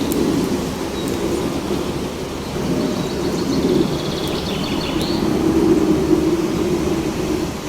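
Wind blowing steadily with a low, rushing sound, and a bird giving a short trill about three seconds in that falls away near five seconds.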